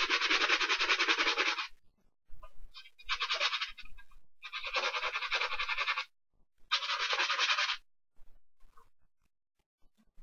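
A brush scrubbing a sneaker in four bouts of rapid back-and-forth strokes, each a second or two long with short pauses between, then stopping about two seconds before the end.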